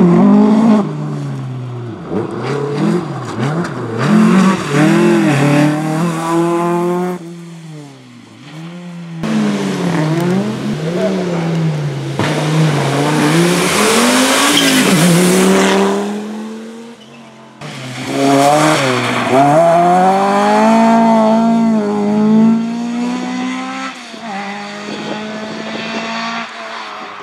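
Rally car engines revving hard, the pitch climbing and falling again and again with gear changes and lifts off the throttle, as cars come through one after another. A stretch of tyre and road noise hisses over the engine in the middle.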